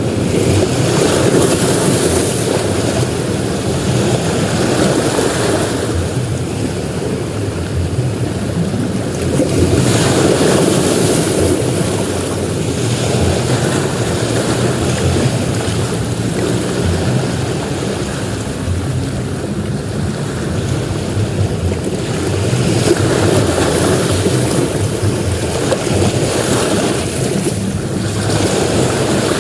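Sea waves breaking and washing up on a beach, swelling louder three times as sets come in, over a steady low rumble.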